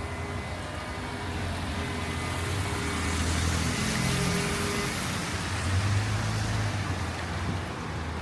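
A car's engine hum and the hiss of its tyres on a wet street, swelling as it passes about halfway through, with more low engine hum a couple of seconds later.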